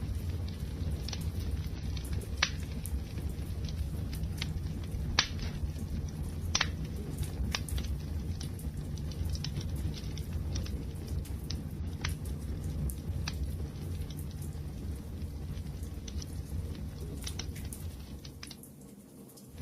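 Wood fire burning with a steady low rumble and scattered sharp crackles and pops, the loudest pops in the first several seconds. The fire sound fades down shortly before the end.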